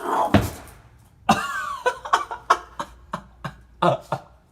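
A run of short, sharp cough-like vocal bursts, with one falling cry about a second in.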